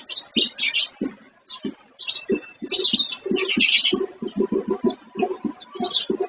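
Birds chirping: many short, sharp calls in irregular clusters, busiest about two to four seconds in.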